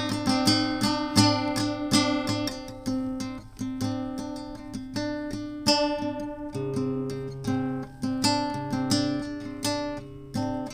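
Acoustic guitar strummed in a steady rhythm, playing chords, with a chord change about two-thirds of the way through.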